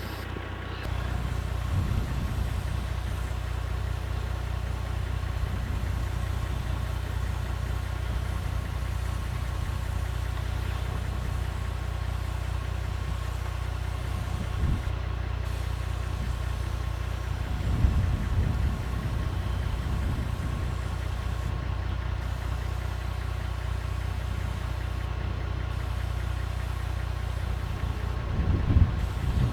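Truck engine idling steadily, with a few soft thumps now and then.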